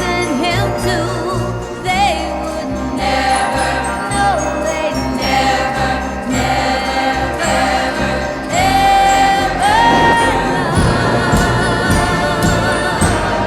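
1960s girl-group pop recording playing: a female lead vocal with backing singers over bass and drums, with long held notes about two-thirds of the way in.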